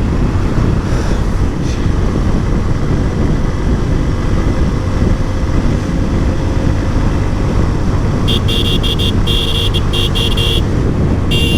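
Steady wind and engine rumble from a moving motorcycle. From about eight seconds in, a high-pitched vehicle horn sounds in a string of short honks, then a longer blast near the end.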